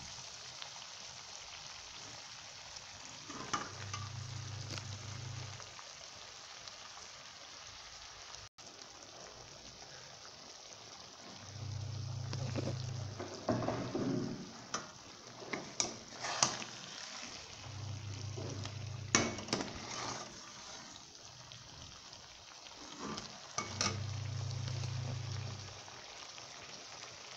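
Ridge gourd pieces in masala sizzling in a pan, with a spatula scraping and knocking against the pan now and then, mostly in the second half. A low hum comes and goes four times, about every six seconds.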